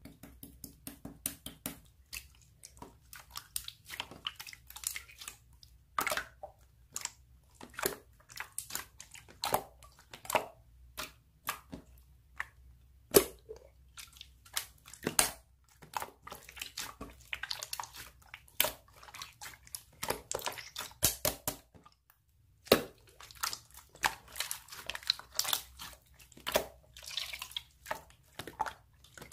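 Slime being squished and pressed by hand: a continuous run of irregular wet clicks and pops, with faster crackling clusters now and then.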